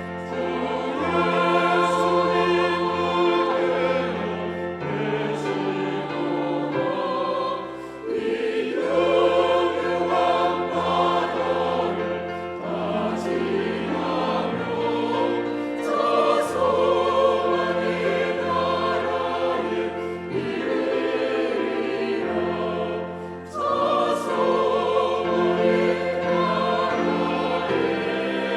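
Church choir singing a Korean anthem in several parts, voices swelling and easing from phrase to phrase over sustained low accompanying notes.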